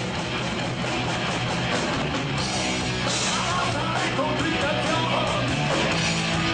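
Rock band playing: electric guitar, bass and drums, with a voice singing over it from about two seconds in.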